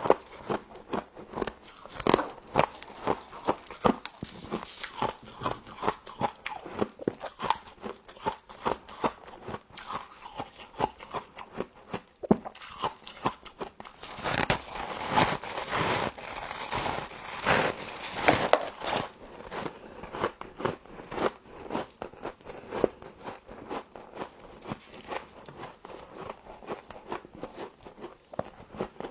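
Close-up biting and chewing of frost, a steady run of crisp crunches and crackles. The crunching grows denser and louder for a few seconds in the middle, then goes back to slower single crunches.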